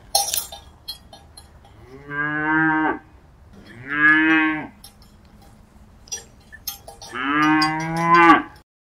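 Cattle mooing three times: two calls of about a second each, then a longer one of about a second and a half near the end. Short clicks sound between the calls.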